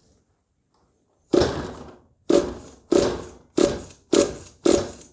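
Kyosho USA-1's .25 nitro engine being cranked over by hand. Six quick pulls start about a second in, each a sharp rasp that fades away. The engine turns over without firing, drawing fuel up into the carburetor.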